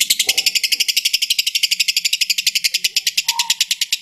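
Lovebird ngekek: one long, unbroken, rapid chattering trill of sharp high notes, about a dozen a second.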